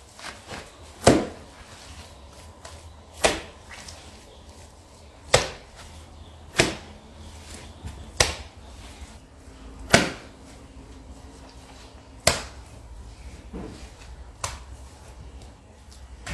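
Sharp knocks of bricks being set and tapped into place while the door of a wood-fired kiln is bricked up, about eight loud ones one to two seconds apart with lighter clacks between.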